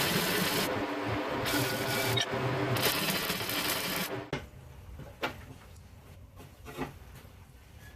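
An electric power tool running with a steady motor hum and repeated grinding or rubbing strokes against metal, stopping about four seconds in, followed by a few light knocks.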